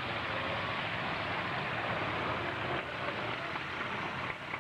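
Demolition derby trucks' engines running under a dense, steady wash of noise, with a brief dip near the end.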